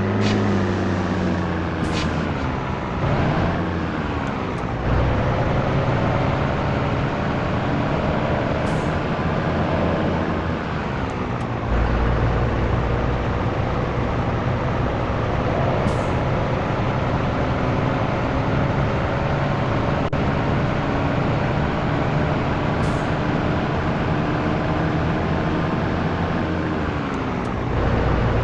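Scania T113 truck's diesel engine pulling on the road, its revs climbing steadily and dropping sharply at each gear change, four times.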